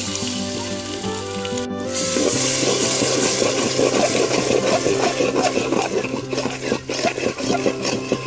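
Background music, with chicken sizzling in hot oil in a pan and being stirred, the sizzle and crackle growing louder about two seconds in.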